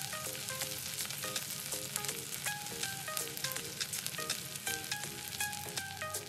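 Chopped onion, peanuts, chillies and curry leaves sizzling in hot oil in a pan, stirred with a spatula, with frequent sharp crackles through the steady sizzle.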